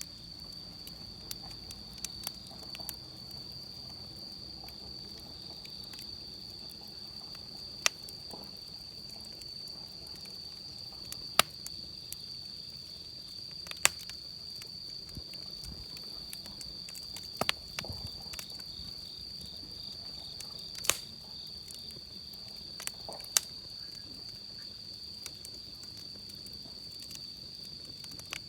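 Wood fire crackling, with sharp single pops every few seconds, over a steady high-pitched trill of insects.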